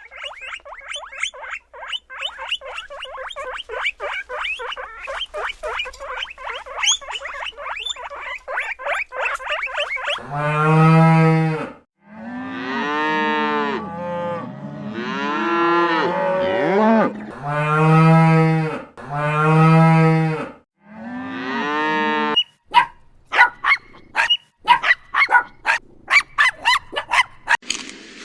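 Cattle mooing: a run of about six long, loud moos one after another in the middle. Before them comes about ten seconds of rapid, high chirping, many calls a second, and after them come sharp scattered chirps.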